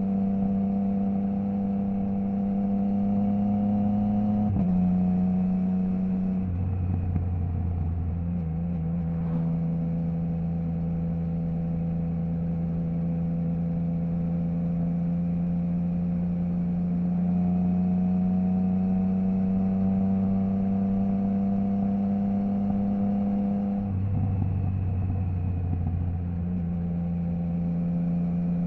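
Triumph Trident 660's inline three-cylinder engine through a baffle-less Zard stainless full exhaust, heard while riding: a steady engine note that rises slowly at times and changes pitch in steps at gear changes about five and six and a half seconds in, and twice more near the end.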